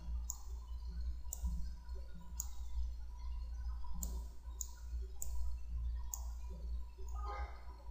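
Computer mouse clicking at an irregular pace, roughly one click a second, over a steady low electrical hum from the microphone.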